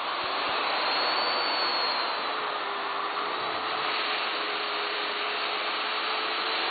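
Miele S8590 UniQ canister vacuum cleaner running at speed: a steady rush of air with a high motor whine and a fainter lower hum, settling at full level about a second in.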